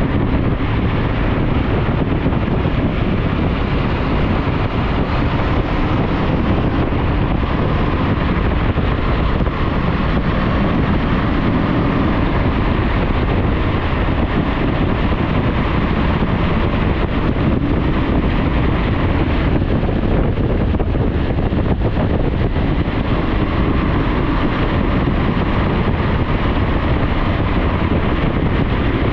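Motorcycle running steadily on the road, its engine mixed with heavy wind rush on the camera microphone.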